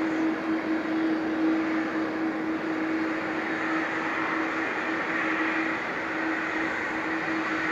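Boeing 777-300ER's GE90 turbofan engines running at taxi power: a steady jet rush with a constant hum and a high whine that grows a little stronger about halfway through.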